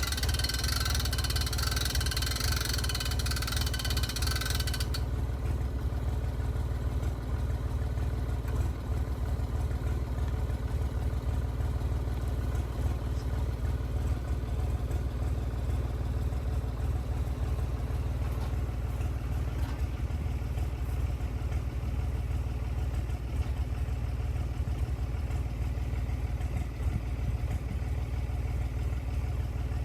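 Tractor engine idling steadily with a low, even drone. A high hiss over it cuts off about five seconds in.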